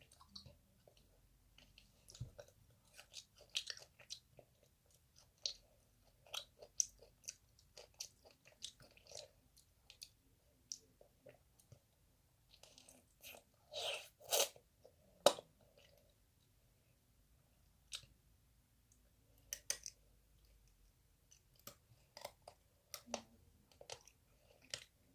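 Close-up biting and chewing of tangerine tanghulu. The hard candied sugar shell crunches and cracks between the teeth in irregular bursts, loudest about halfway through.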